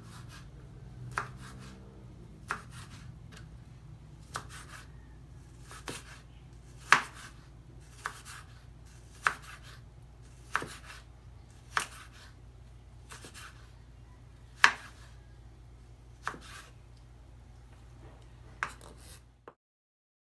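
Kitchen knife chopping on a cutting board in slow, separate strokes, roughly one a second, over a low steady hum. The sound cuts off suddenly near the end.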